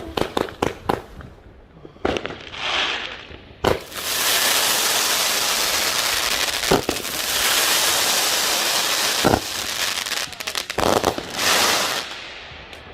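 Fireworks going off: a quick run of sharp bangs, a rushing whoosh about two seconds in, then several seconds of dense crackling with a few loud bangs in it, dying away near the end.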